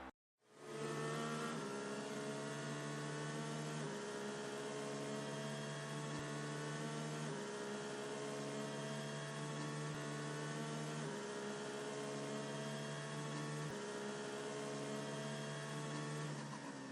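Soft background music of sustained droning synth chords, shifting to a new chord every few seconds.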